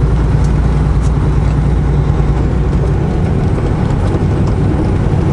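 Semi truck driving, heard from inside the cab: a steady, loud low drone of the diesel engine and road noise, with a few faint clicks. The deepest part of the rumble eases a little about three seconds in.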